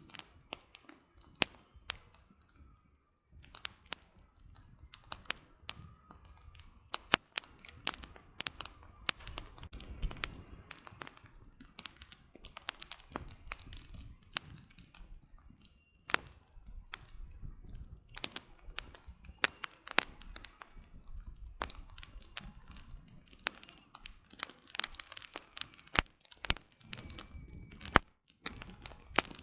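Campfire of burning firewood crackling: irregular sharp pops and snaps, thicker in spells, over a faint low rumble at times.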